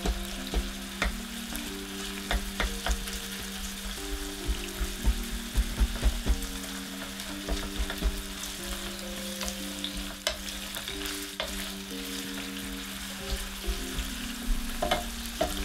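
Ground pork and green onions sizzling in oil in a nonstick frying pan, stirred and broken up with a wooden spatula that clicks and scrapes against the pan many times.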